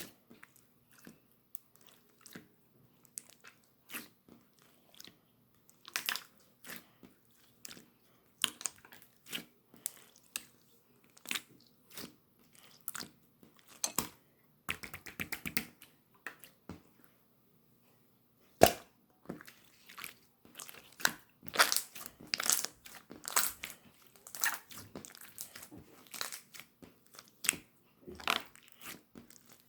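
Blue slime being squished, poked and stretched by hand: irregular sticky pops, clicks and crackles, with a quick run of clicks about fifteen seconds in and a thicker cluster of louder pops a few seconds later.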